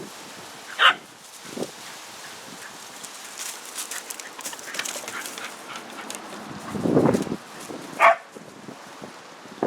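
A dog giving two short, high yips, one about a second in and another near the end, with a lower, longer sound just before the second.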